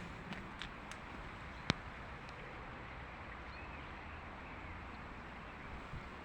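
Steady outdoor background noise with a few faint clicks and one sharp click a little under two seconds in.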